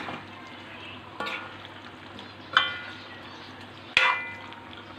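A spoon stirring chicken curry in a pot over a steady sizzle, striking the pot three times with short ringing clinks about a second and a half apart.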